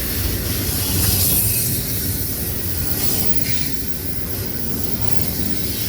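A train rolling past: a steady rumble of wheels on the rails, with a hiss of high-pitched noise over it.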